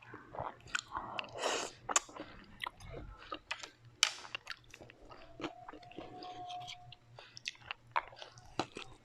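Close-miked chewing and biting of crunchy food, a run of crisp crackles and clicks with two sharper crunches about 2 and 4 seconds in.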